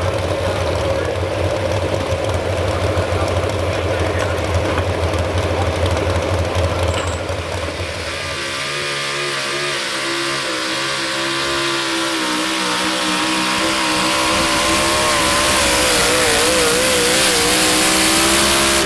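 Modified 4x4 pulling truck's engine: a deep low rumble, then from about eight seconds in it runs hard at high, fairly steady revs during a pull, growing louder with a hiss building toward the end.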